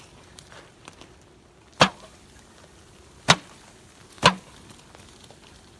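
Three sharp knocks, the second about a second and a half after the first and the third a second later.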